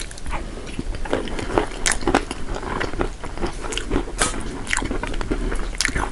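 Close-up eating sounds: a person biting and chewing crisp fried nimki with spiced potato (aloo nimki), with irregular crunching crackles several times a second.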